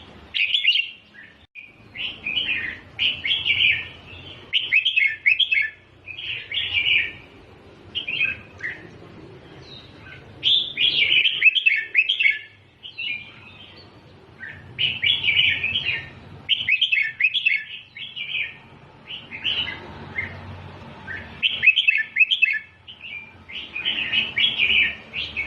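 Red-whiskered bulbul singing short, quick warbled phrases, one after another with brief pauses between them. This is the repeated 'double' (เบิ้ล) song style that is played to young bulbuls as a tutor song.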